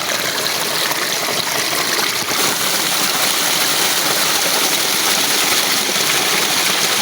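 Steady rush and babble of clear water flowing over stones in a shallow forest stream.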